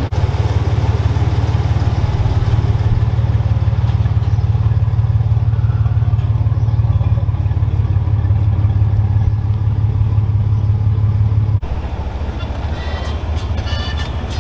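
Truck engine and exhaust running with a loud, steady low drone. The drone cuts off abruptly about three seconds before the end, and music begins near the end.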